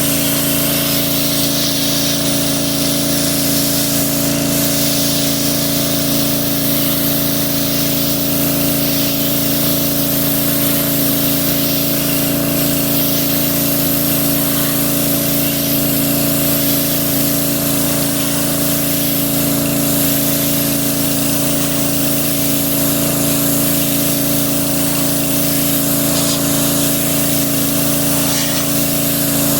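Pressure washer running steadily: the motor-driven pump hums without change under a continuous hiss of spray.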